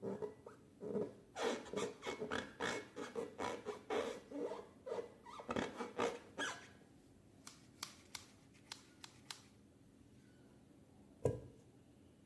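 Close-up slime-making handling sounds: a dense run of short crackling clicks and scrapes for about the first seven seconds, then a few sharp separate ticks, and one louder thump near the end.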